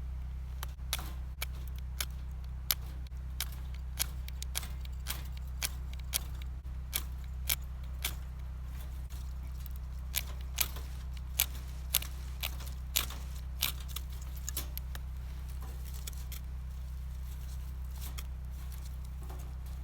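Wood fire crackling: sharp, irregular pops, roughly one or two a second, over a steady low rumble.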